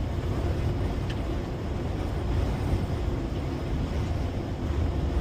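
Steady low drone inside the cab of a fully loaded semi-truck driving in strong wind: engine, tyre and wind noise with no distinct events.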